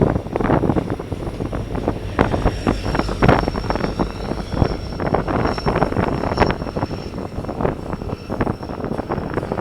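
A train passing close by, its wheels clattering over the rail with a faint steady high-pitched squeal. Wind is buffeting the microphone.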